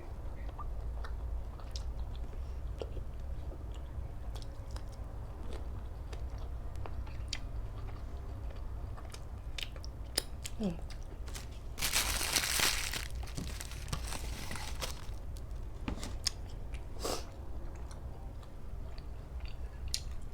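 A person chewing and biting food close to the microphone, with crisp crunches from raw vegetables and sharp mouth clicks scattered throughout. About twelve seconds in, a louder rushing noise lasts about a second.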